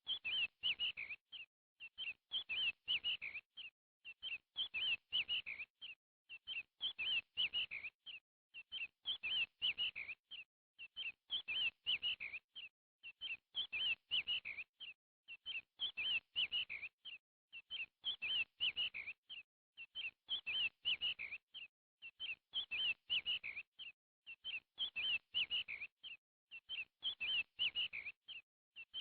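Bird chirping in quick clusters of short high notes. The same phrase repeats about every two seconds with short gaps between, like a looped recording.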